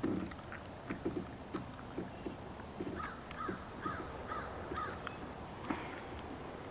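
A bird calling five times in a row, each short note rising and falling. Beneath it, light water splashes and small knocks from the kayak, with a splash at the start.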